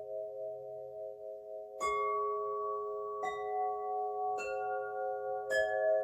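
Singing bowls ringing in a steady blend of sustained tones, struck four times about a second apart. Each strike adds a bright new ringing note over the drone.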